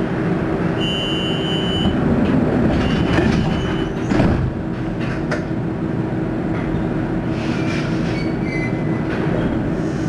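Düsseldorf SkyTrain suspended monorail car running along its track, heard from inside the car, with a steady rumble and hum. A beeping tone sounds about a second in, a single knock comes about four seconds in, and faint squeals are heard near the end.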